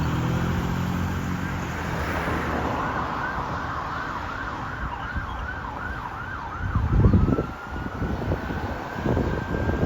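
Fire engine siren going past: a steady wail switches to a fast yelp of about four cycles a second, then glides back up into the wail, over the low running of the truck's engine. A loud low rumble about seven seconds in.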